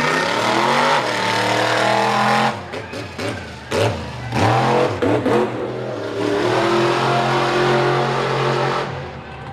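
Mega truck engine revving hard. The revs rise, drop, give several short sharp blips around the middle, then hold at high revs for a few seconds before falling off near the end.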